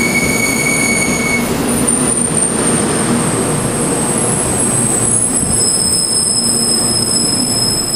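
Shinkansen 300 series train rolling slowly past as it arrives at a station, a loud, steady rumble of wheels on rail with several high steady squeals over it.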